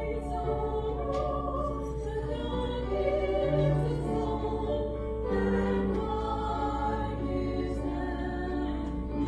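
A choir singing a slow piece with long held notes.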